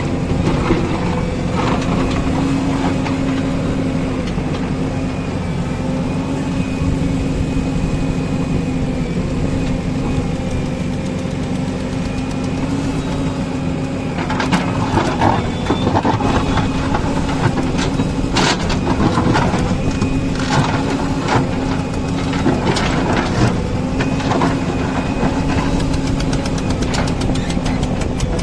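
Diesel engine of a backhoe loader or tractor running steadily. From about halfway through, scattered knocks and clatter join it.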